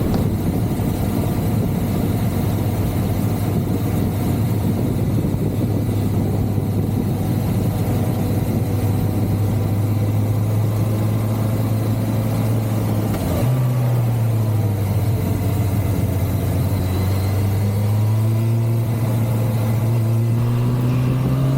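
1985 Suzuki GSX-R750F's inline-four engine running steadily as the bike is ridden along. About two-thirds of the way through, its note jumps up sharply in pitch, then climbs slowly as the bike pulls.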